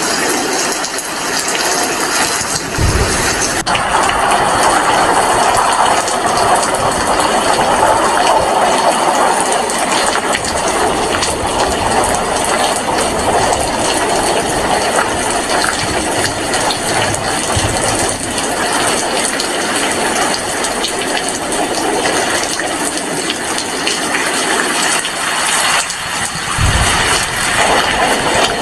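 Heavy rain falling steadily, a dense even hiss, with two brief low thumps, one about three seconds in and one near the end.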